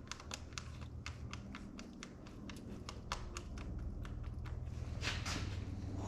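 Chevrolet Cruze 1.4 turbo engine running with a fast, irregular ticking rattle over a low steady hum. The rattle comes from the valve lifters losing oil pressure, which the uploader puts down to a loose upper timing chain guide. A short whoosh comes about five seconds in.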